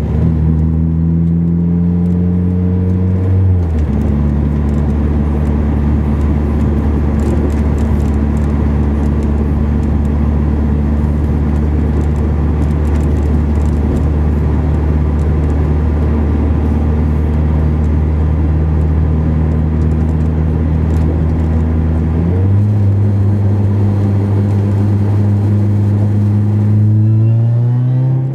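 Honda S2000's inline-four with a Roots supercharger at 8 psi and a 3-inch dual exhaust, driving. The engine note drops sharply about four seconds in and then holds low and steady for a long stretch. It steps up again later and climbs near the end.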